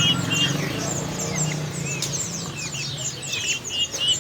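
Many caged songbirds chirping at once, a dense run of short falling chirps with a repeated two-part call among them, over a low background murmur.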